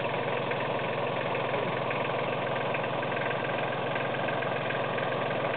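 Kubota tractor engine idling steadily.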